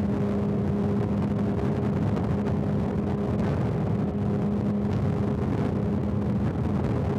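Large motorcycle engine running at a steady highway cruising speed, a constant drone mixed with wind and road noise.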